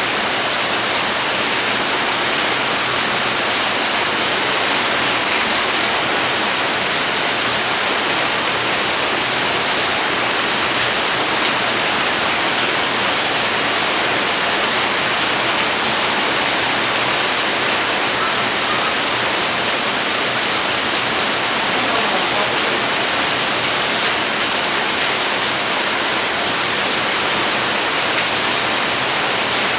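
Rain falling steadily, a dense, even hiss that does not let up.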